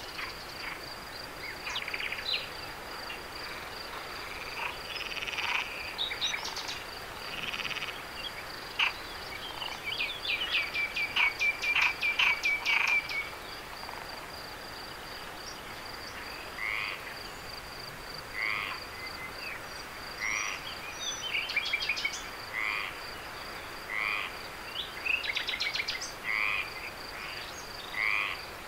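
Frogs calling over a steady high insect trill: a fast pulsed run of calls near the middle, then short calls repeating about once a second.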